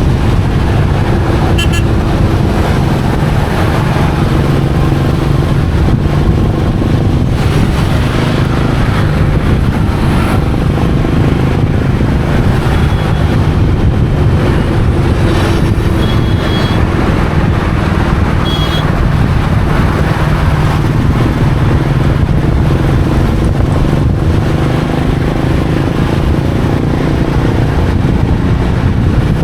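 Royal Enfield Meteor 350's single-cylinder engine running steadily while riding on the road, its exhaust thump continuous throughout. A few short horn toots cut in, mostly around the middle.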